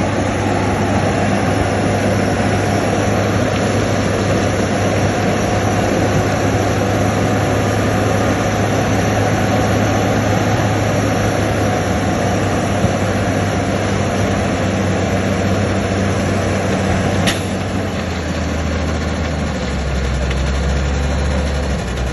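Diesel engine of heavy earthmoving machinery running steadily. About three-quarters of the way through its pitch drops lower, with a single short click just before.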